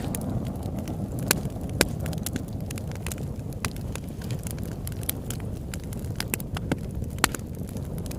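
Campfire crackling: sharp, irregular pops and snaps over a steady low rumble.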